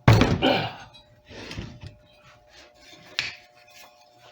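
A heavy weight lifted off a clamping stack and set down with a loud clunk, followed by a few lighter knocks and clinks as the clamping blocks are handled.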